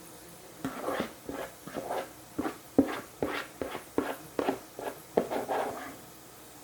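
A quick, irregular run of knocks and clatter, about two to three strikes a second, starting just over half a second in and stopping about six seconds in.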